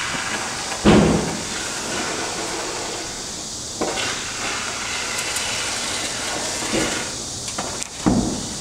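Urethane spray foam hissing steadily out of a foam gun's nozzle as a gap is filled, with a few knocks, the loudest about a second in.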